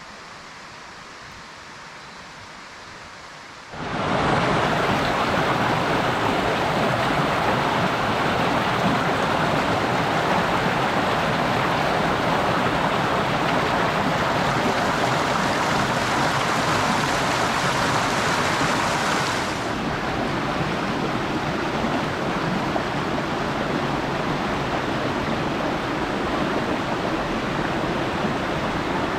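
Loud, steady rushing of water, cutting in sharply about four seconds in after a quieter hiss.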